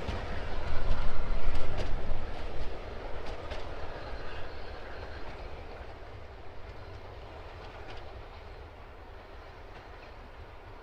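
A train rolling past, its wheels clicking over the rail joints, loudest in the first couple of seconds and then fading away as it recedes.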